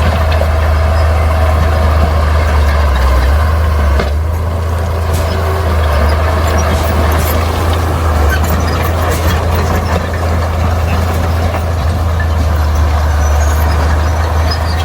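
Heavy diesel earthmoving machinery running steadily with a deep, continuous rumble. The sound briefly dips and shifts about four seconds in.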